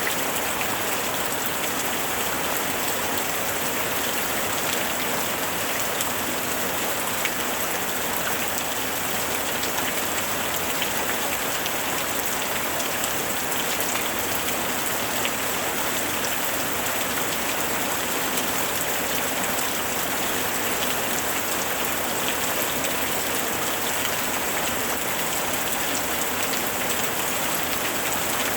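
Steady rain, a constant hiss dotted with the fine ticks of individual drops striking a surface.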